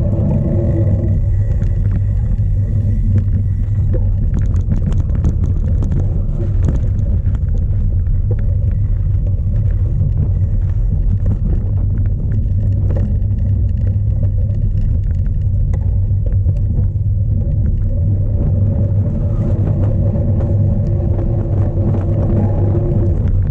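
Strong wind buffeting the onboard camera's microphone, a loud, constant low rumble, with many short clicks and rattles from the cyclocross bike over rough ground.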